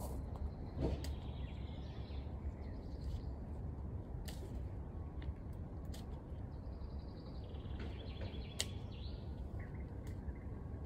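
Small birds chirping now and then over a steady low rumble of outdoor background noise, with a few sharp clicks or taps.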